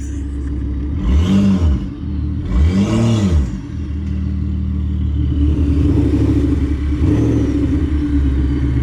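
Car engine revved twice in quick succession, the pitch rising and falling each time, then running on at a steady note.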